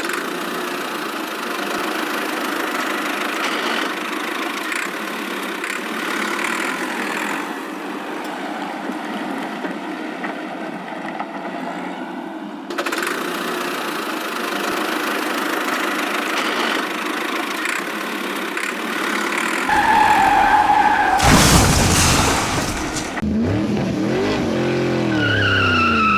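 Cartoon vehicle engine sound effects: a steady running engine for most of the stretch, then louder near the end with engine revs that rise and fall in pitch.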